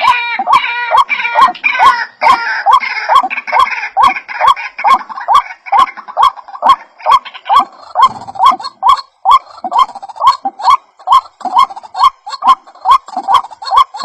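White-breasted waterhen (ruak-ruak) calling: a fast, steady string of short rising notes, about three a second, with sharp clicks in step. Several birds overlap in a denser chorus during the first few seconds, then a single repeated note carries on.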